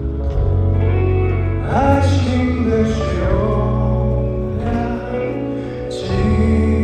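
Live pop song played by a band over heavy bass, with a male voice singing.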